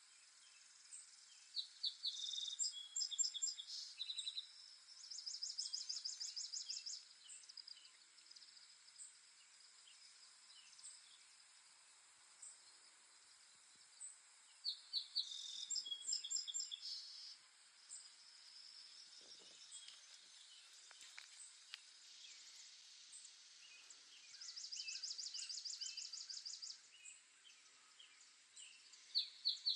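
A songbird singing short phrases of high chirping notes, some running into a rapid, even trill, repeated about every ten seconds. Between phrases there is a steady faint high hiss of insects and light ticking calls.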